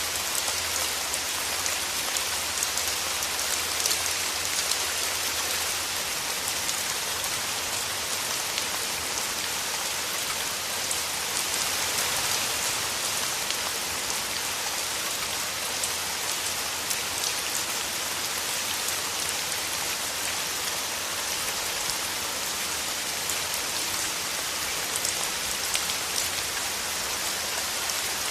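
Steady rain falling through forest trees, a dense even hiss with many small drop ticks.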